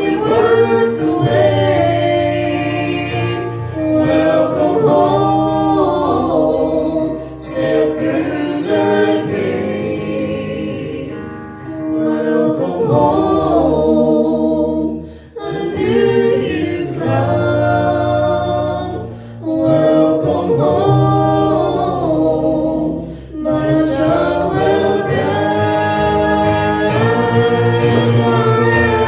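A choir singing a song in several-part harmony, in phrases of a few seconds with short breaks between them.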